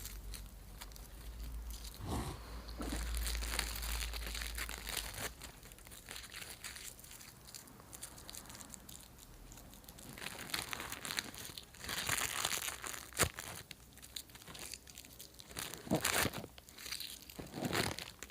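Food wrappers being crumpled and crinkled by hand, with some tearing. The crackling comes in uneven handfuls and is busiest in the second half.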